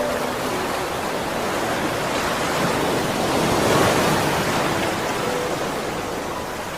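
Steady rush of water, swelling a little about four seconds in.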